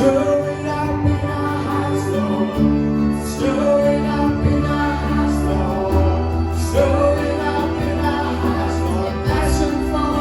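Slow contemporary worship music: long sustained chords over a low bass that moves to a new note every few seconds, with soft singing.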